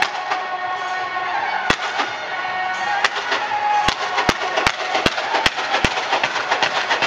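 Aerial fireworks going off over music. A single sharp bang comes about 1.7 s in, then a run of sharp bangs about two and a half a second from about 4 s in, then dense crackling towards the end.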